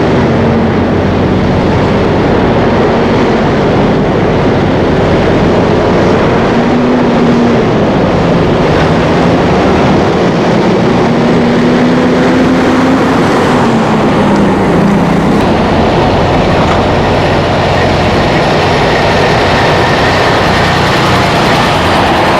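Loud, steady rumble of heavy vehicles passing close by, with a low hum that slowly rises and falls in pitch.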